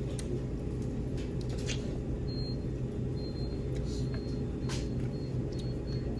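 Steady low mechanical hum of a restaurant's ventilation or refrigeration, with a few short, light clicks spread through it.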